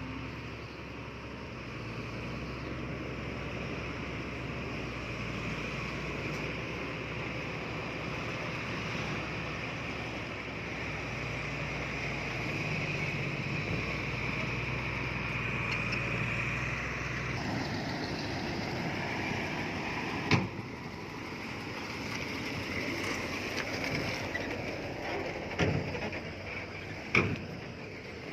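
Heavy earthmoving machine's diesel engine running steadily. Its sound changes about two-thirds of the way through, followed by a few sharp knocks near the end.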